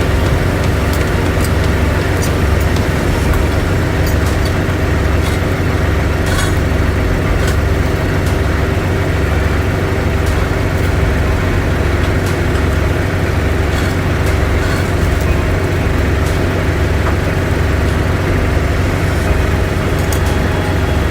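Large engine idling steadily with a low, slightly pulsing drone, and a few faint clicks and knocks over it.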